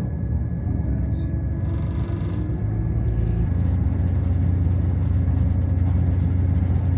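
Vehicle engine running with a steady low rumble, its pitch dropping slightly about three and a half seconds in, with a short hiss about two seconds in.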